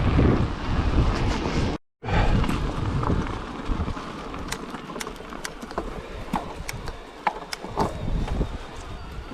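Wind buffeting the microphone with a low rumble, then, after an abrupt cut about two seconds in, a quieter stretch of scattered sharp clicks and knocks.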